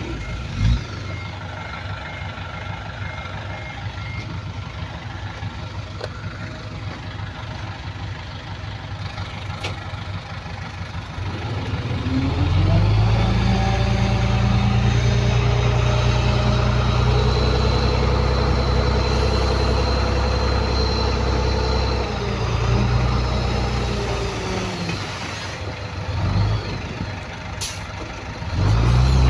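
Heavy diesel engine of earthmoving machinery running at low revs, then revving up about twelve seconds in and held loud for about ten seconds before easing back down. A faint beeping sounds in the first few seconds.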